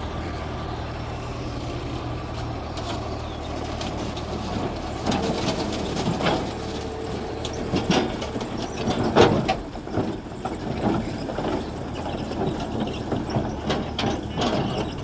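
Mitsubishi G2 bulldozer's diesel engine running steadily. From about five seconds in it is joined by irregular knocks and clatter, the loudest a little after the middle.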